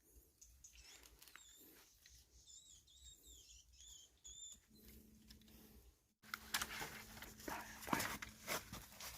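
A small bird calling: a run of short, wavering high chirps over a few seconds. About six seconds in, louder rustling and sharp clicks of handling take over.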